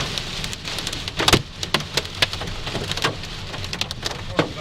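Large hailstones striking a car's body and windshield in irregular sharp clacks over the steady hiss of heavy rain, the loudest hit just over a second in.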